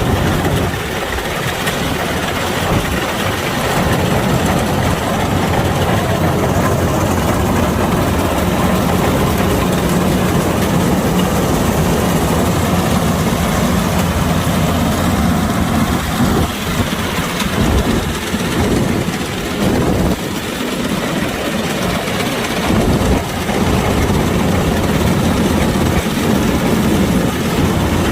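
Kubota DC-105X combine harvester's engine running steadily with a low hum, with a few brief dips in level past the middle.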